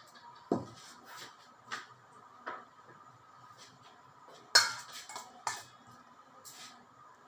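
Kitchen utensils and dishes clinking and knocking, about six separate strikes. There is a deeper thump about half a second in, and the loudest, sharpest clink comes about four and a half seconds in.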